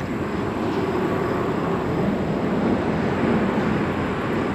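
Steady traffic noise from a busy road and highway, an even low rumble with no distinct passes.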